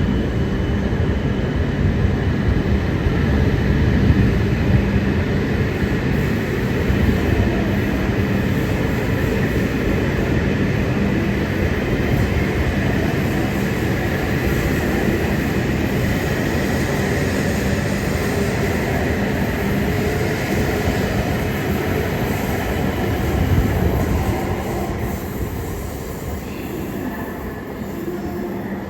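E5 series Shinkansen train running: a steady rush of rail and running noise with a steady low hum, easing off somewhat over the last few seconds.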